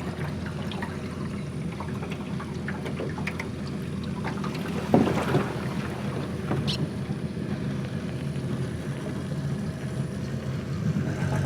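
Outboard motor of a speedboat running steadily under way, with water rushing along the hull. A short, louder sound rises above it about five seconds in.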